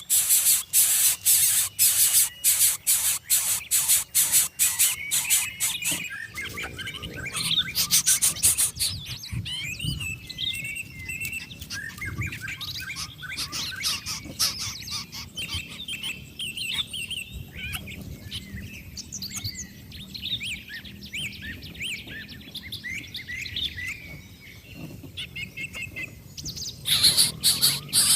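Coucal nestlings at the nest giving a loud, rapid rasping hiss, many strokes a second, for the first several seconds, again briefly about eight seconds in and near the end. Between these bouts come many high, varied chirping calls.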